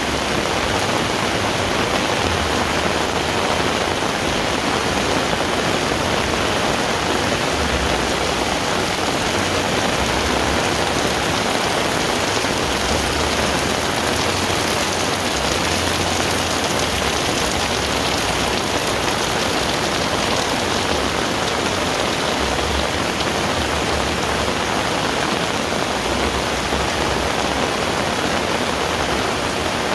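Heavy rain falling steadily, a dense even hiss, with a low rumble that comes and goes underneath.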